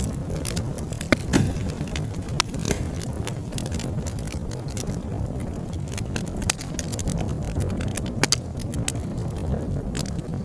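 Wood fire in a fireplace crackling, with frequent sharp pops scattered over a steady low rumble of the flames; the loudest pops come about a second in and again near eight seconds.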